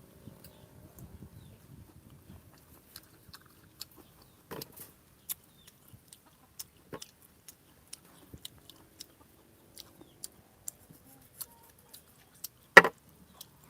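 Eating rambutan: scattered small wet mouth clicks and smacks of biting and chewing the juicy fruit flesh, with one much louder short sound near the end.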